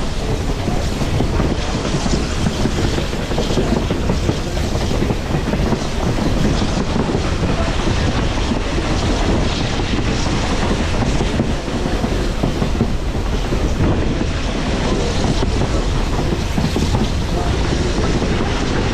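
Excursion train cars rolling steadily at speed: a continuous rumble of steel wheels on the rails with wind noise.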